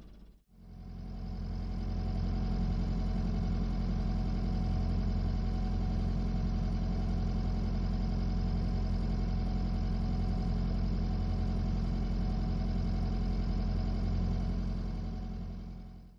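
A motorsailer's inboard diesel engine runs steadily at low revs. It fades in over the first couple of seconds and fades out near the end.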